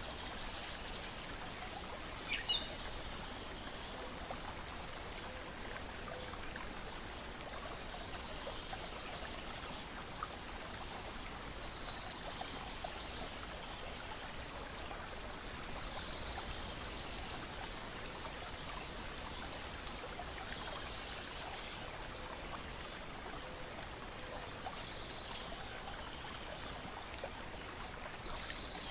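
Steady lapping and trickling of lake water, with small scattered crackles of a wood fire. Short bird chirps come every few seconds, with a quick rising call a couple of seconds in and a brief high trill a few seconds later.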